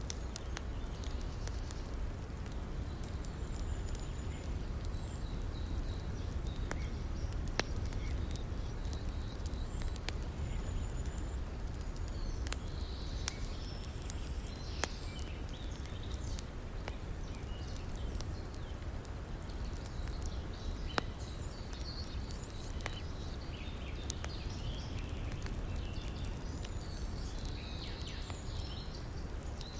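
Wood campfire crackling, with sharp pops scattered irregularly, over a steady low rush of river water.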